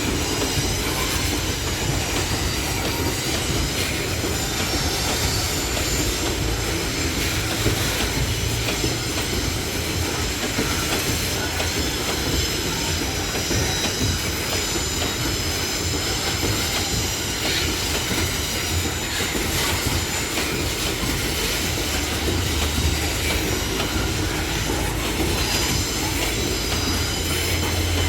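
Loaded freight wagons of a long train rolling past at close range: a steady heavy rumble of wheels on rail, with thin high-pitched wheel squeal at several pitches that gets stronger near the end.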